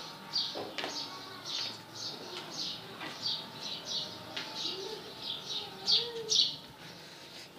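Small birds chirping: a quick, steady run of short, high chirps, about two a second, that stops about a second before the end.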